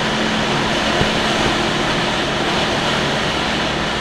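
Steady rush of air around a Blanik L-13 glider's cockpit in aerotow, with the tow plane's propeller engine as a steady drone underneath.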